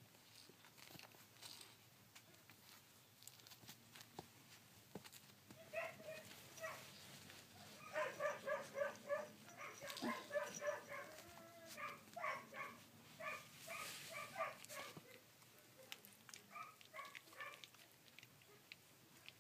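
Sixteen-day-old rough collie puppies calling: a string of short, high-pitched squeaks, faint at first and coming thick and fast from about eight to fifteen seconds in, then a few more near the end.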